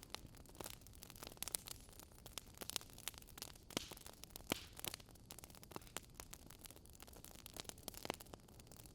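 Wood fire crackling: irregular sharp pops and snaps over a low, steady hiss.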